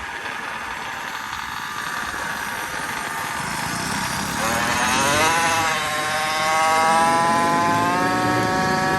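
Small motorbike engine running, at first as a steady noise, then about four seconds in it revs up to a high pitch and holds there, climbing slightly again near the end.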